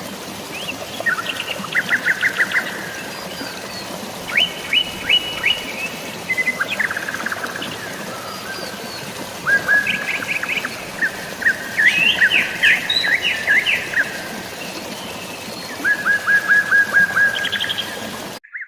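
Songbirds singing in repeated short phrases of rapid chirps, about half a dozen phrases in turn, over a steady hiss of rain and running water. The sound cuts out briefly near the end.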